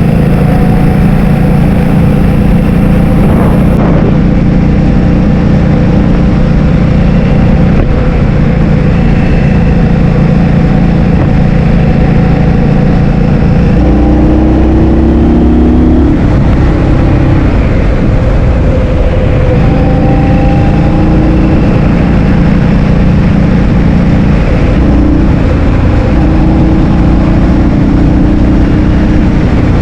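Loud wind noise buffeting the microphone while riding a motor scooter, with the engine running underneath; the engine note changes and rises about halfway through, then settles.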